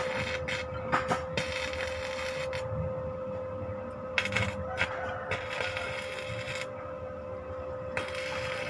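Foam shredder driven by an electric multifunction drill, its motor running with a steady hum. Several bursts of ripping noise come and go as foam is torn apart by the cutter teeth, with a few sharp clicks early on.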